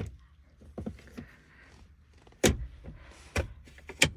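Handling noises inside a car cabin: five sharp clicks and knocks over about four seconds, the loudest about two and a half seconds in.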